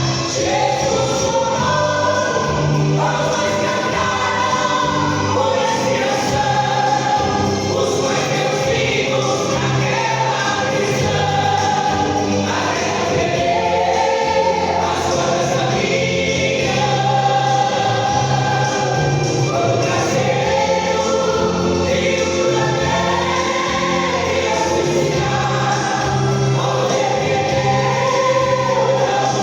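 A church vocal group singing a gospel song in chorus, with instrumental accompaniment keeping a steady low bass line.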